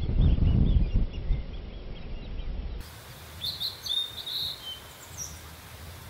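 Low rumbling wind noise for the first few seconds, then a blue-and-white flycatcher singing a short phrase of high whistled notes, with one more note shortly after.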